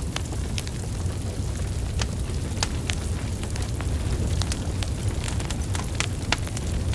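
Wood fire of burning logs: a steady low rumble of flames with irregular sharp crackles and pops, several a second.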